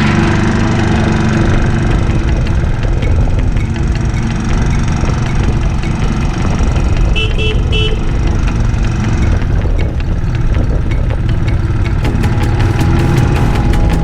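Royal Enfield motorcycle engine running steadily on the move. About halfway through, a horn gives three short beeps.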